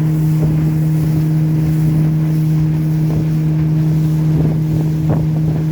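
Hidea 60 hp outboard motor running at a steady speed, its pitch holding constant.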